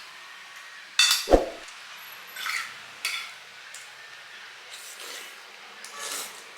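Eating utensils clinking and scraping against dishes during a meal, with a loud knock about a second in.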